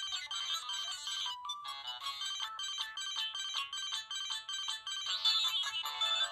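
Samsung mobile phone ringtones playing: quick, bright electronic melodies of short stepped notes. About a second in, one tune breaks off on a short held tone and another begins.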